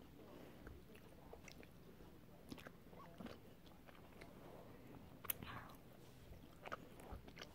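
Faint chewing of Airheads taffy candy, with scattered soft mouth clicks and one sharper click about five seconds in.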